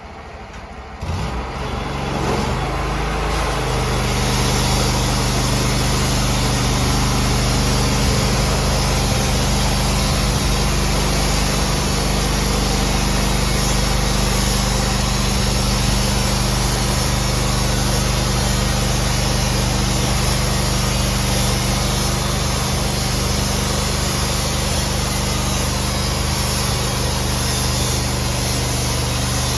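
A sawmill's engine is throttled up about a second in and then runs steadily at speed, holding one even note.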